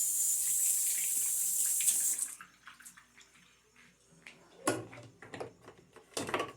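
Water running in a steady hiss for about two seconds, then stopping abruptly. A few knocks and clatters of a plastic part follow near the end.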